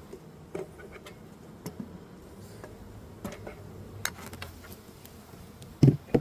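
Scattered light clicks and knocks of beehive woodwork being handled, with two louder knocks near the end, over a faint hum of honey bees.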